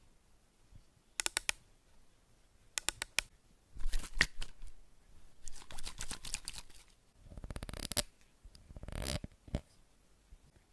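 Close-miked ASMR trigger sounds: short groups of two or three crisp clicks, then longer scratchy rustling and crackling from about four seconds in.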